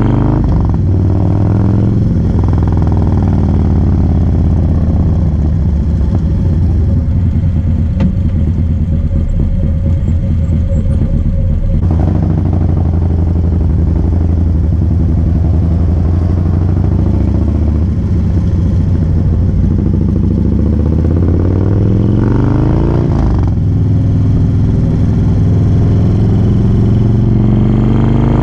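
2017 Harley-Davidson Low Rider S's air-cooled Twin Cam 110 V-twin running under way. The pitch rises as it accelerates through the gears near the start and again a little over twenty seconds in.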